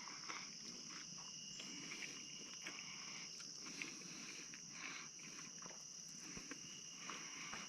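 Steady high-pitched chorus of insects such as crickets, with faint scattered clicks and rustles close by.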